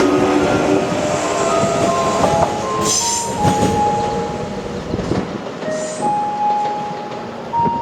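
Kintetsu Minami Osaka Line electric train running past at close range, its wheels clattering on the rails. Steady squealing tones step from one pitch to another and hold for up to about a second and a half at a time.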